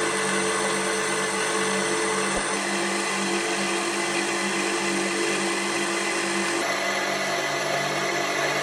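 A machine running steadily, with a humming tone that shifts pitch about two and a half seconds in and again near seven seconds.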